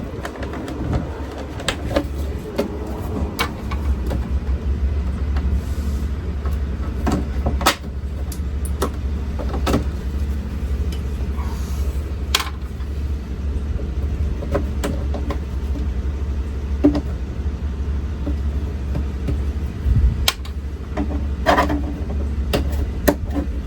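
Scattered sharp clicks and knocks of plastic trim and connectors being worked loose by hand in a truck cab, over a steady low hum.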